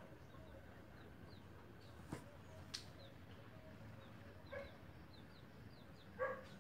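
Faint bird chirps in the background, with a couple of light clicks and a few short, louder bird calls near the end.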